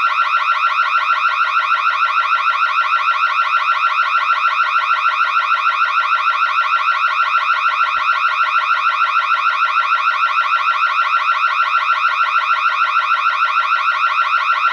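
Burglar alarm sound effect: a loud electronic alarm tone pulsing rapidly and evenly without a break.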